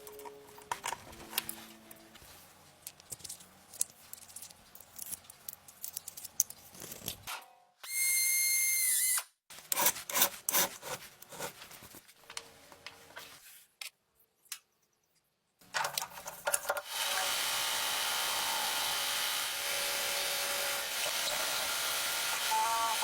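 Workshop tool sounds in a row: scattered taps and scrapes of hand work, a short loud burst of a power tool at about 8 seconds, more clicking, then from about 17 seconds a power tool running steadily with a high hiss.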